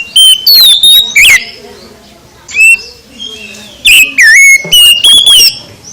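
Oriental magpie-robin (kacer) singing loud, clear whistled phrases with sliding notes: a run of notes at the start, a short note midway, and another run about four seconds in. The song is recorded so loud that it clips.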